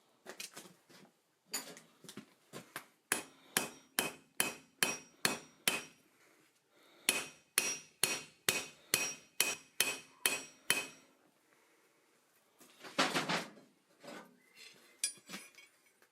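Forging hammer striking steel on an anvil: two runs of steady blows, about two to three a second, each with a short metallic ring. Near the end comes a single longer clatter, followed by a few light knocks.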